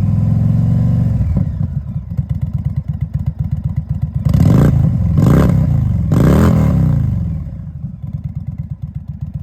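Indian 116 Thunderstroke V-twin motorcycle engine running loud through Rinehart slip-on mufflers. A rev falls back to a lumpy idle, then three quick throttle blips in a row near the middle before it settles to idle again.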